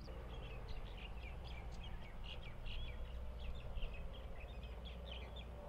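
Birds chirping: many short, irregular calls in quick succession over a low steady rumble.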